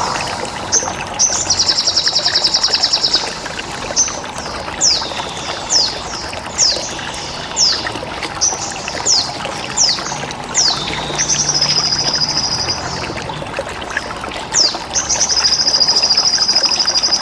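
Sogon bird song: a run of sharp chirps, each sliding down in pitch, broken by three long, evenly pulsed buzzing trills, from about one to three seconds in, from eleven to thirteen seconds, and near the end. The trills fit the bren cicada and ciblek (bar-winged prinia) filler calls. Underneath runs a steady trickle of water.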